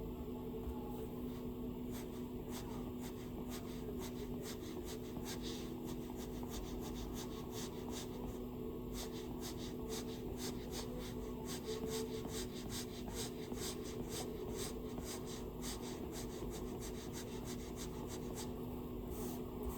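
Stylus drawing on an iPad's glass screen: quick short strokes and taps, several a second in runs with brief pauses. A steady low hum sits underneath.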